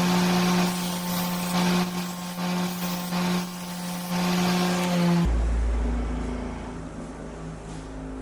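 A power tool's electric motor running at a steady pitch with a hissing grinding noise, cutting off suddenly about five seconds in to a deep low rumble.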